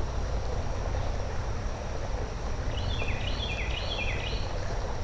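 Outdoor ambience: a steady low rumble and a constant high insect drone, with a bird singing a string of short notes that step downward about three seconds in.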